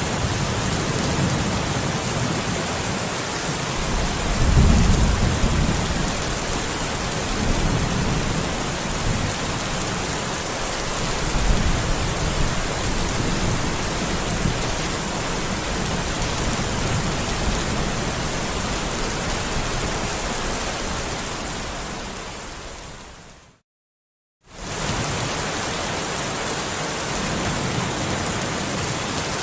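Steady heavy rain hiss with low rolling thunder, loudest about four to five seconds in and again around twelve seconds. A little past two-thirds through, the sound fades out to about a second of silence, then the rain fades straight back in.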